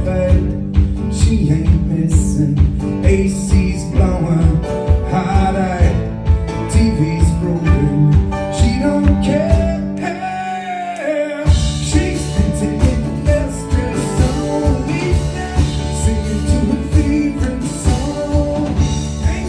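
A live band playing a country-rock song, with a steady beat, bass, guitar and a lead melody line. About ten seconds in, the drums and bass drop out for a moment, leaving the melody alone, before the full band crashes back in.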